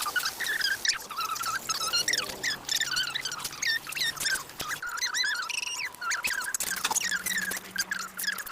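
Many quick, high chirps and squeaks from small animals, overlapping and coming in rapid succession.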